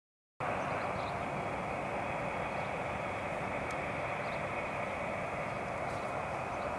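Steady jet engine noise from aircraft at an airport, starting abruptly a moment in and holding at an even level.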